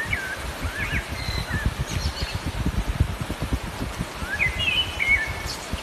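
Small birds chirping in short warbling phrases of gliding notes, heard a few times, over a constant low, uneven rumble.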